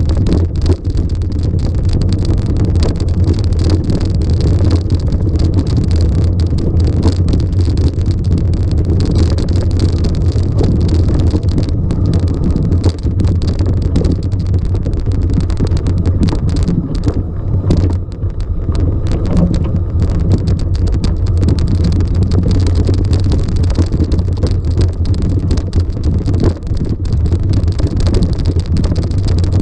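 A motor vehicle running steadily, a continuous low engine drone under a noisy rumble, with a few brief dips.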